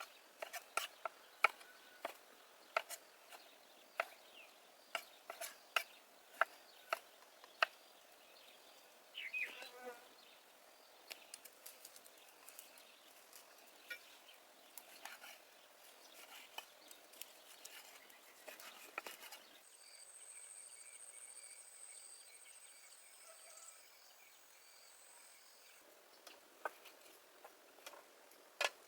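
Scattered sharp clicks and knocks, with a high, steady insect buzz lasting about six seconds in the second half.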